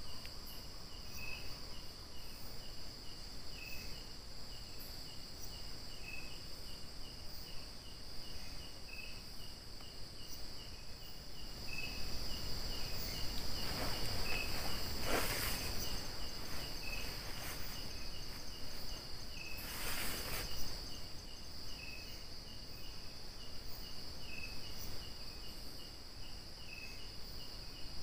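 Insect chorus: crickets and other insects keep up a steady high trill, over a regular chirping of about three pulses a second. Two brief rustling noises come around the middle.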